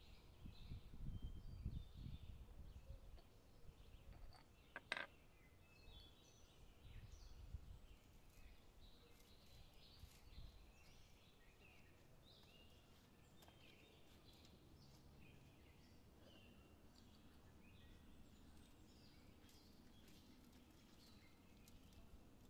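Faint birdsong outdoors: many short chirps scattered throughout, with a low rumble during the first few seconds and one brief sharp sound about five seconds in.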